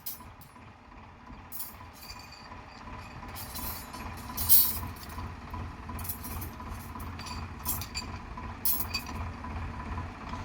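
Tractor engine running low and steady, with scattered sharp metallic clinks and scrapes over it.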